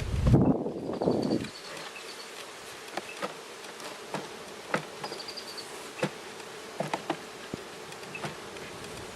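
Honeybees buzzing around an open hive, a steady hum. A louder rustling handling noise fills the first second and a half, and light clicks are scattered through the rest.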